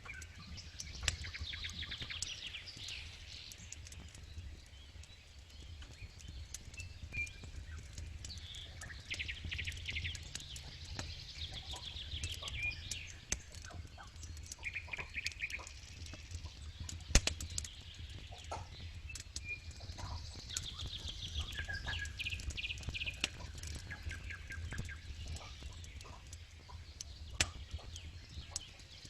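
Campfire crackling with scattered sharp pops, one loud pop about 17 seconds in, over a steady low rumble. Birds sing repeated chirping trills in the background throughout.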